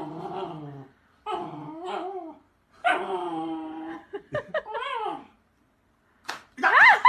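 A dog vocalizing: four drawn-out calls, each about a second long, that waver up and down in pitch, with short gaps between them.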